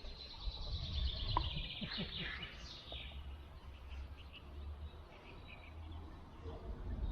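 Small songbird singing a rapid high chirping trill for about three seconds, then a few scattered chirps, over a steady low rumble.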